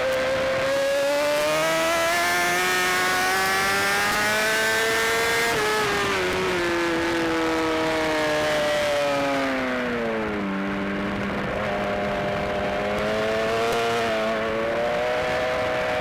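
BMW S1000RR inline-four racing engine heard from onboard at speed, with wind noise. It pulls hard with rising pitch for about five seconds, shifts, then falls in pitch as the bike slows into a corner. From about ten seconds it pulls again, with a couple of quick shifts near the end.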